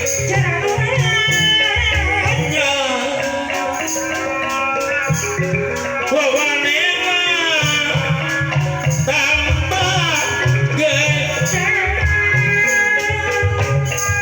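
Live Sundanese Jaipong music: kendang drum patterns in the low end under a wavering, gliding, ornamented melody line, with rattling percussion.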